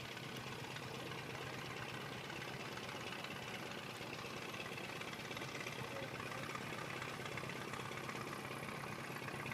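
1926 Ford Model TT's four-cylinder engine idling steadily, freshly started.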